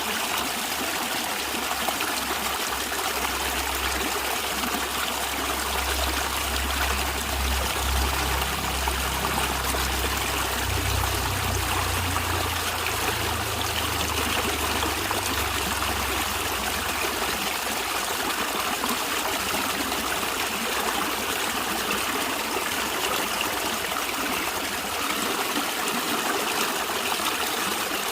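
Stream water running and trickling, a steady, even rush with no breaks. A low rumble sits beneath it from a few seconds in until a little past the middle, then fades.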